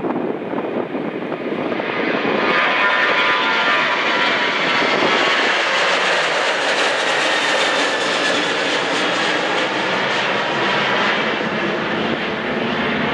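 An airliner's engines passing close by, swelling over the first couple of seconds and then holding loud, with a whine of several high tones drifting slowly in pitch above the rush.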